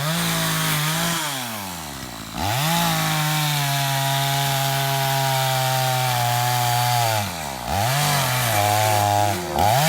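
Chainsaw revved to full throttle and cutting into a tree: it runs high with its pitch slowly sagging under load, drops back briefly a few times and revs up again.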